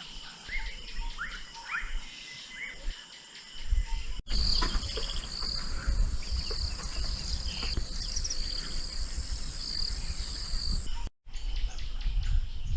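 Bush ambience: short rising bird calls repeat about every half second for the first few seconds. Then a steady high-pitched insect buzz sets in over a low rumble.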